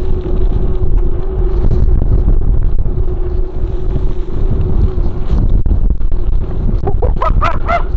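Wind buffeting the microphone on a fast mountain-bike descent, over a heavy low rumble of the bike rolling over the dirt trail and a faint steady hum. About seven seconds in come four quick short squeaks.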